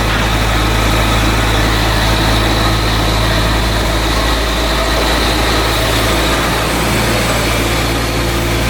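Heavy machinery running steadily, a constant low engine hum with steady tones over a noisy haze, shifting slightly about six and a half seconds in.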